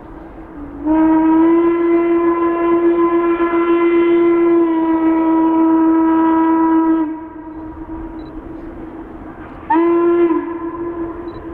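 Steam locomotive whistle, most likely Western Maryland 1309's, blown in a crossing-style pattern: a long blast, then a short one near the end. Each blast slides up in pitch as it opens and sags as it closes. The sound rings on between the blasts.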